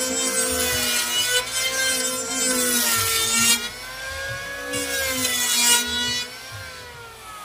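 Handheld electric power tool working wood: the motor's whine dips and recovers under load, with two long passes of cutting noise. Its pitch falls away near the end as it spins down.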